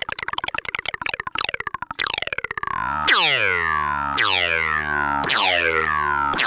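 Eurorack modular synthesizer 'laser' patch through a Make Noise Erbe-Verb reverb: about two seconds of fast stuttering pulses, then falling-pitch laser zaps about once a second, each ringing out in a long reverb tail.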